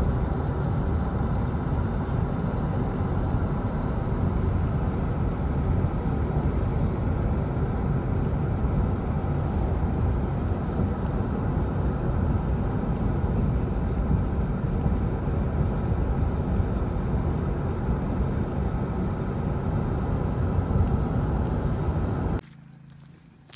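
Steady road and engine noise heard inside a moving car. It cuts off abruptly near the end, leaving a much quieter low hum.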